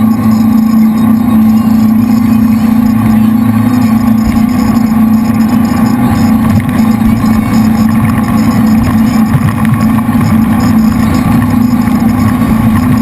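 A jet boat's three V8 engines running loud and steady at speed, an unchanging drone.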